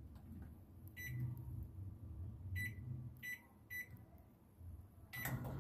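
Microwave oven keypad beeping as its buttons are pressed: one beep about a second in, then three more in quick succession. Near the end the oven switches on with a sudden clunk and settles into a steady low hum.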